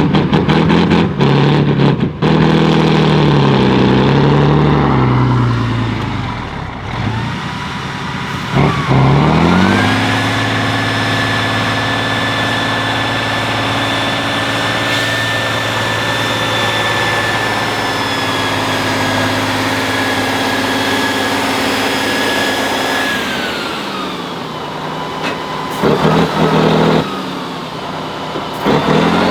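Heavy off-road trial truck's engine working under load: its revs waver up and down, then climb sharply about nine seconds in and hold steady at high revs for around thirteen seconds before dropping back, with some clattering near the start and near the end.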